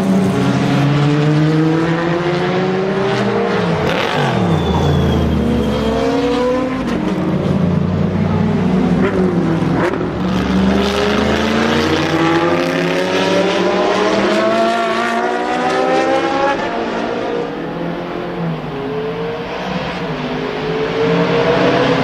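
Shelby Daytona Cobra Coupe's V8 exhaust under hard acceleration, its pitch climbing again and again as it pulls through the gears. The pitch drops sharply and climbs back about four seconds in and again about ten seconds in.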